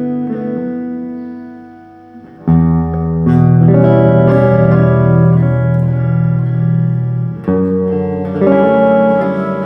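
Instrumental guitar music: a held chord fades away, then a loud new chord with a deep bass note rings in about two and a half seconds in, and another chord follows near the end.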